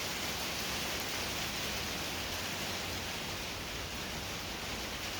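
Steady hiss of heavy rain coming down outside.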